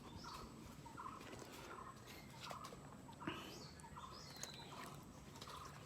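Faint, short bird-like chirps repeating every half second or so, with a few light clicks.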